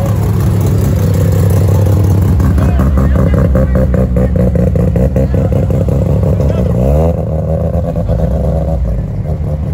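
Mazda RX-7 (FD) rotary engine running loud and choppy as the car pulls away at low speed, its exhaust stuttering in rapid, even pulses. About seven seconds in an engine revs up with a rising pitch, then settles back to a steady run.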